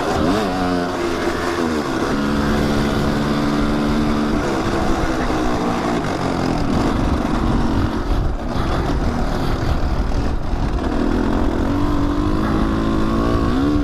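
Kawasaki dirt bike engine under way on a trail, its pitch rising and falling with the throttle. For a stretch in the middle the engine tone sinks under a rough, noisy rumble, and it climbs again near the end.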